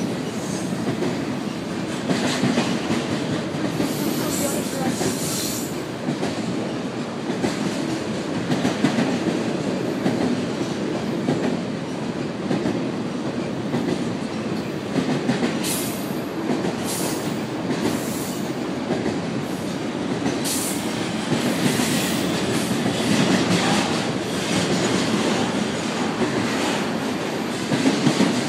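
A train rolling steadily along the rails with a continuous rumble and wheel clatter. Brief high wheel squeals come several times along the way.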